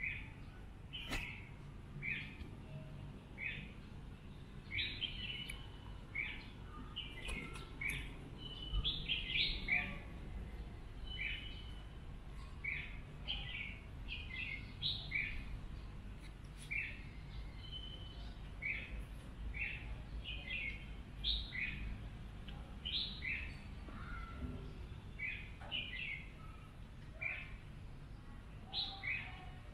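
Birds chirping: short, high calls repeated about once or twice a second, over a low steady background rumble.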